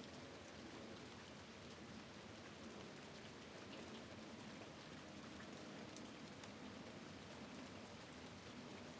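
Rain falling: a faint, steady hiss with scattered light drop ticks.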